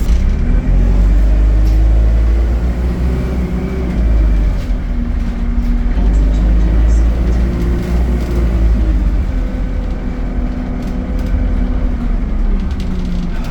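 ADL Enviro 200 bus engine and Allison automatic gearbox under way, a deep rumble whose note rises, drops and rises again several times as the bus accelerates through its gears.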